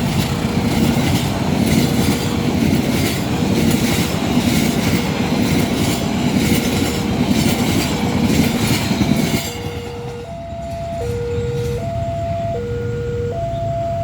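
Sawunggalih passenger train running through the station at speed, its carriages clattering rhythmically over the rail joints. The noise cuts off suddenly about nine and a half seconds in, leaving an electronic warning alarm that alternates between a low and a higher note, which had been faintly audible beneath the train.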